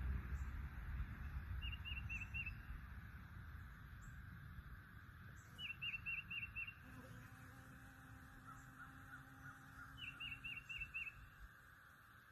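A bird calling outdoors in three bursts of four or five quick notes, a few seconds apart, with a fainter bird calling in between. A low rumble fades out during the first few seconds.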